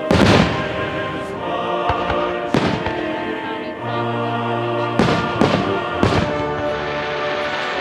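Aerial fireworks exploding in about five sharp bursts: one near the start, one a couple of seconds later, and three in quick succession past the middle, each with a rolling echo. Music runs steadily underneath.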